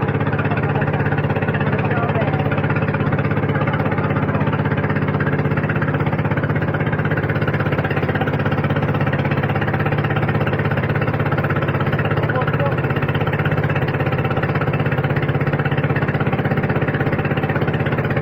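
A boat's engine running steadily at an even speed, a constant fast-pulsing drone with no change in pitch.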